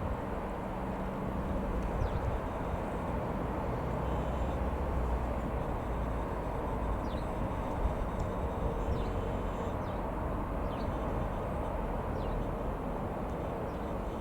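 Steady running of a Comco Ikarus C-42 light aeroplane's Rotax 912 four-cylinder engine, heard from outside at a distance as a low rumble, with a few short high chirps over it.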